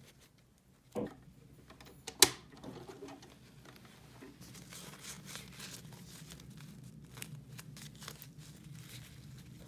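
Small plastic toys and their packaging being handled: soft crinkling and rustling, with a knock about a second in and a sharp plastic click a little after two seconds in.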